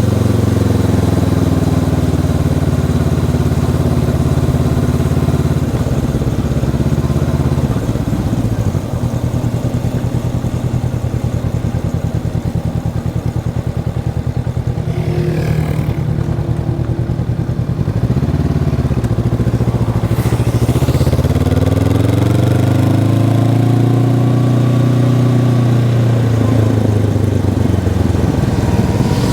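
Honda CB500X parallel-twin engine under way. It runs steadily, goes quieter for about ten seconds from around 8 seconds in, then rises in pitch as it accelerates a little after 20 seconds and falls again as it eases off.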